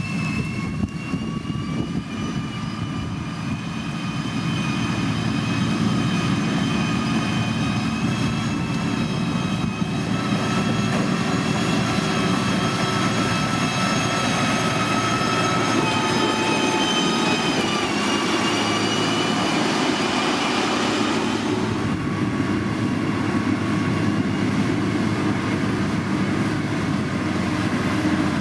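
Diesel engine of a heavy road-building machine running steadily under load, with a high whine over the engine rumble that shifts in pitch and drops away about three-quarters through.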